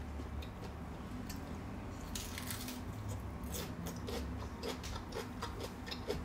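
A person chewing a mouthful of food close to the microphone, with many short wet clicks and smacks from the mouth.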